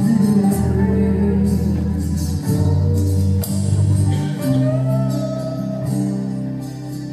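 Live worship band playing: guitar, keyboard and drums with cymbal wash under a voice singing a sustained melody.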